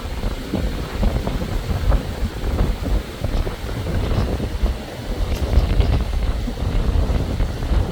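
Wind buffeting the microphone over the rumble of passing road traffic.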